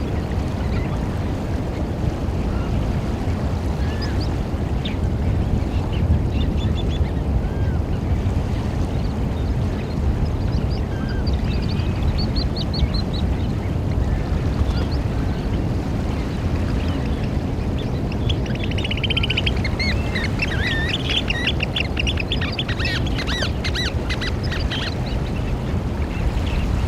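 Eurasian oystercatchers calling: scattered short piping notes, then past the middle a long run of rapid, shrill piping. Underneath runs a steady low background rumble.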